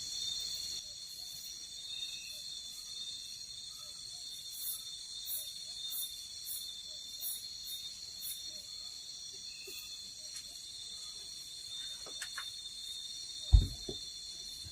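Night insect chorus, crickets trilling in a steady high-pitched drone, with a higher chirp repeating about every two-thirds of a second through the middle. A single sharp knock near the end.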